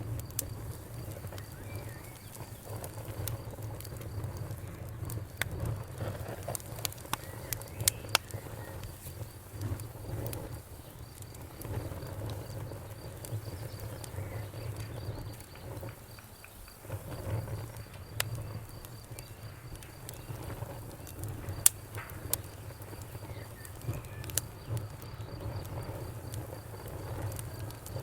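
Wood fire in a fireplace crackling: irregular sharp pops and snaps over a steady low rumble of the flames, with one louder pop about three-quarters of the way through.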